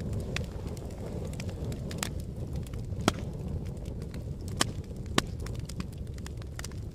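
Fire crackling: a steady low rumble of burning with sharp pops and snaps scattered throughout, three of them louder, about three, four and a half and five seconds in.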